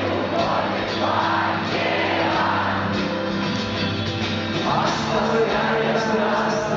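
Rock song with a singer over a band, playing steadily.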